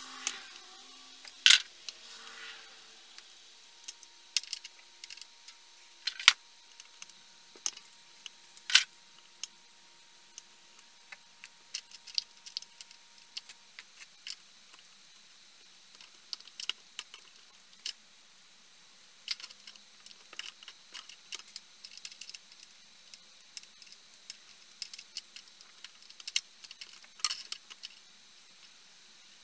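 Small metal parts and tools being handled: irregular clinks, taps and rattles, with a few sharper clicks in the first nine seconds.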